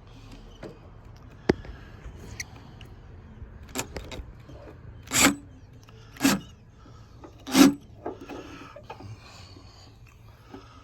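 Makita cordless drill-driver run in three short trigger bursts about a second apart, driving in the strut mounting bolts, with light clicks and clinks of tools and hardware.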